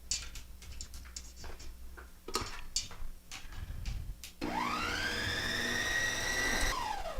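Clicking and clattering of utensils and a bowl, then an electric mixer whirs up about four seconds in, runs at a steady speed mixing the eggs, oil, pineapple juice and sugar, and winds down near the end.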